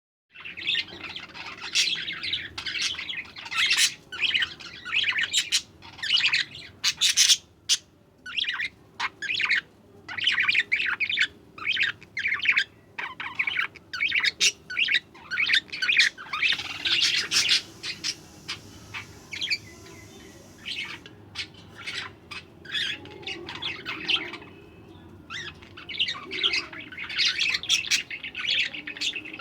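Budgerigars chattering and chirping in quick, overlapping bursts of warbled calls, thinning out briefly past the middle before picking up again.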